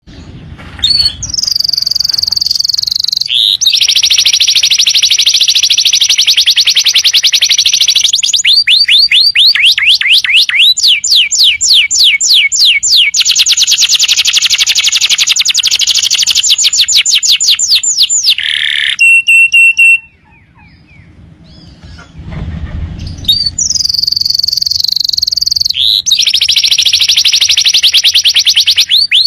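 Domestic canary singing: loud, high-pitched, rapid trills and rolling runs of repeated notes, broken by a pause about two-thirds of the way through before the song starts again.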